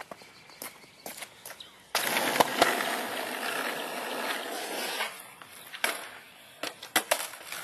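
Skateboard wheels rolling on pavement, starting about two seconds in with a couple of sharp clacks of the board, then fading out; a few sharp knocks of the board near the end.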